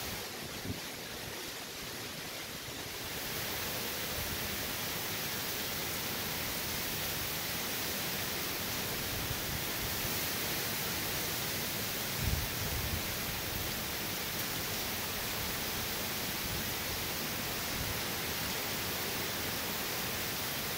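Steady hiss of heavy hurricane rain driven by wind, growing a little louder about three seconds in, with a brief low thump about twelve seconds in.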